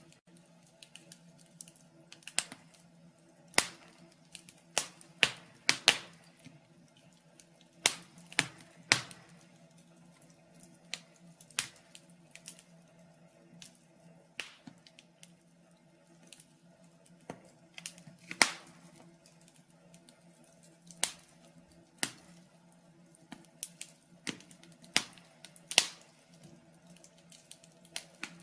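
Fire in a fireplace crackling: irregular sharp pops and snaps, one or two a second and unevenly spaced, over a faint steady hum.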